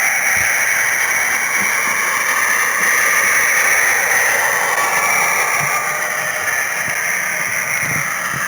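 H0-scale model train running along the track with the camera aboard: a steady whirring hiss from the small motor and wheels, with faint low knocks from the track, easing slightly in pitch near the end.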